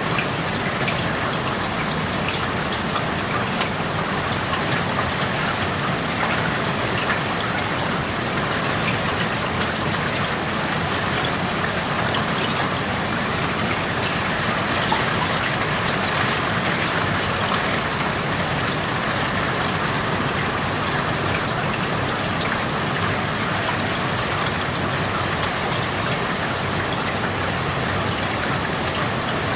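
Steady rain falling, a dense even hiss with many small drops pattering on surfaces, heard through an open window.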